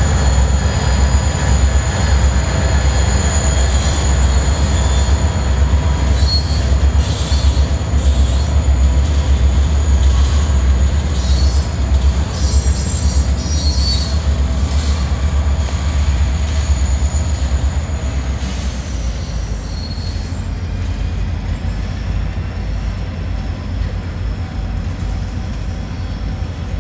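Norfolk Southern freight train rolling through the yard, its diesel locomotive engines running under high wheel squeal from the rails, with scattered clanks from the cars. The squeal and the overall level ease after about eighteen seconds.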